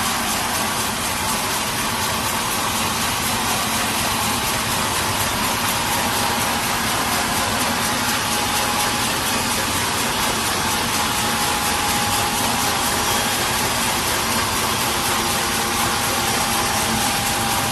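Sawmill machinery running steadily: a loud, even noise with a faint high whine held throughout.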